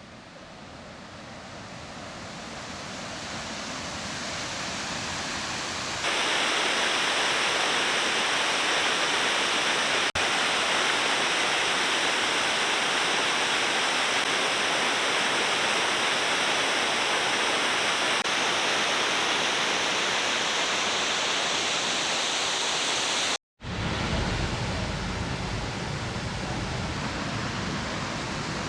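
Waterfall: a steady rush of falling water. It fades in, jumps abruptly louder about six seconds in, breaks off for a moment near the end, and resumes with a deeper rumble.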